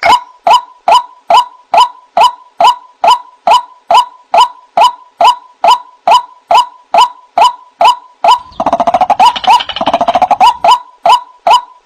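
White-breasted waterhen (ruak-ruak) calling: a loud, evenly repeated short note, nearly three a second, with a burst of denser overlapping chatter a little past the middle.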